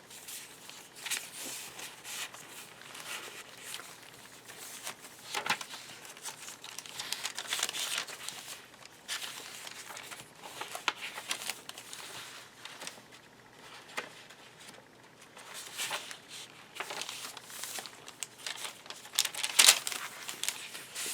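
Paper rustling and crinkling as the pages, pockets and inserted cards of a handmade paper journal are turned and handled: irregular crisp rustles, with a sharper, louder crackle near the end.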